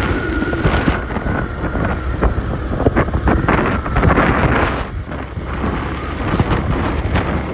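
Wind buffeting the microphone on a moving Hero XPulse 200 4V motorcycle, a loud, uneven rumble with the bike's running underneath. A faint thin whine fades out in the first second or two.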